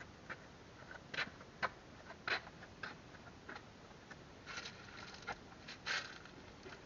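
Irregular light knocks and clicks, with a short scrape or rustle around four and a half seconds in: small hard objects being handled and moved about.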